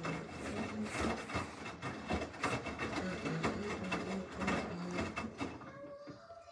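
Samsung washing machine running a wash cycle: motor whirring and drum turning, with irregular knocks and clicks. It dies down near the end.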